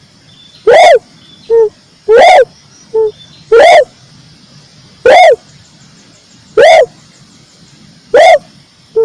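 Red turtle dove calling: a loud, arched cooing note repeated about every one and a half seconds, some followed by a shorter, lower note.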